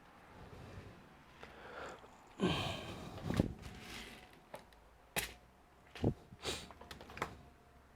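Handling noise from laptop repair work: scattered light clicks and knocks of plastic laptop parts and tools, with a longer rustle about two and a half seconds in.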